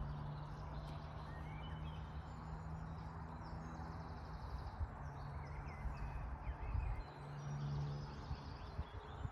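A steady low hum, with scattered short bird chirps above it.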